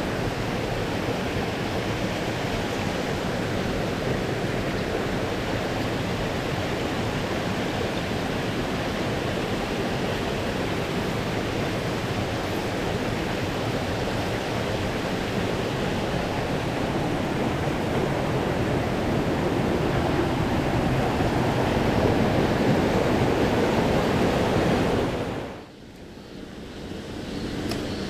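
Rushing mountain-stream water, a steady hiss. The sound drops away sharply near the end and comes back over a couple of seconds.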